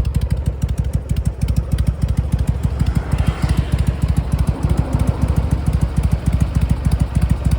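2003 Harley-Davidson Sportster 883 Custom's air-cooled V-twin engine idling steadily, with a rapid run of low exhaust pulses.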